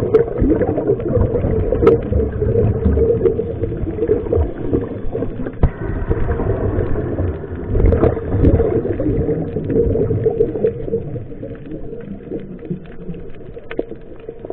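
Muffled underwater rumble and bubbling, heard through a camera's waterproof housing, with scattered small clicks. It swells irregularly and grows fainter over the last few seconds.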